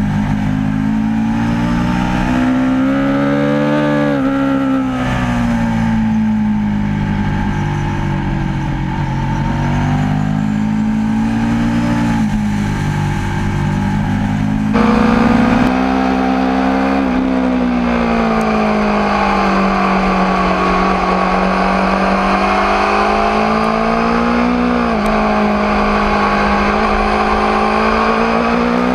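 Aprilia RSV4 APRC motorcycle's V4 engine running under way, its note climbing and falling again and again with the throttle. It drops sharply at points that fit gear changes.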